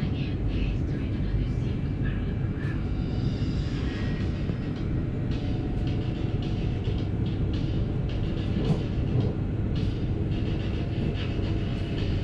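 Background music over the steady low rumble of a moving passenger train.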